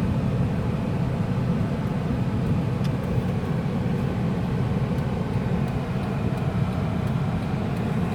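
Car driving along a road: a steady low rumble of engine and tyre noise, heard from inside the car.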